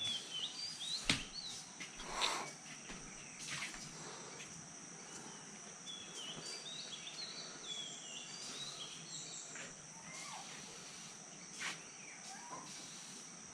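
Rainforest morning ambience: a steady high insect drone with birds chirping in short scattered notes, and a few sharp knocks and clicks.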